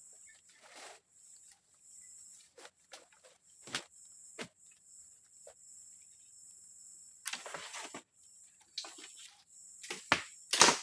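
Steady high chirring of crickets, with scattered knocks, snaps and short rustles of handling close by. The loudest knocks come near the end.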